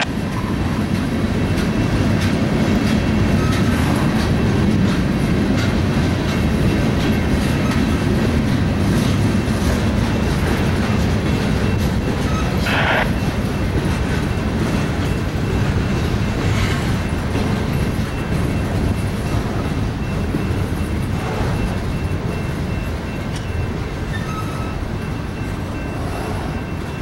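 Freight train rolling past, its cars giving a steady loud rumble with wheel clatter on the rails. There is a brief higher-pitched note about halfway through, and the rumble eases slightly near the end.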